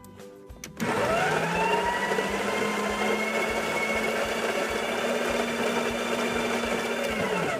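Electric coffee grinder motor running while grinding espresso coffee: it spins up about a second in, rising in pitch, runs steadily, then stops near the end, its pitch falling as it winds down.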